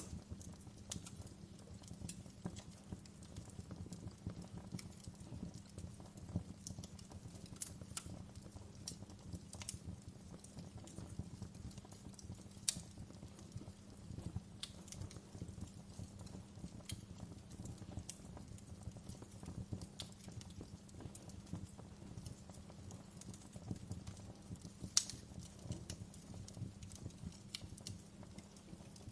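Wood fire crackling in a fireplace: irregular sharp pops and snaps over a steady low rumble of the flames, with two louder pops, one a little before the middle and one near the end.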